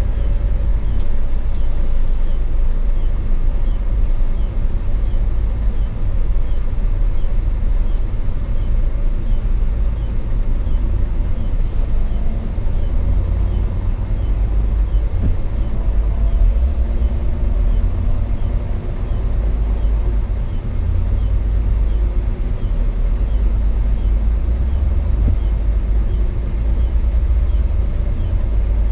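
Inside the cab of a Hino 500 FM 260 JD truck under way: its six-cylinder diesel engine and the road noise make a steady, heavy low rumble. A light regular tick, roughly every two-thirds of a second, runs over it.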